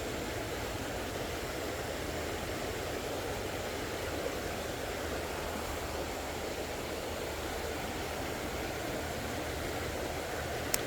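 Steady rushing of flowing creek water, with one brief sharp click near the end.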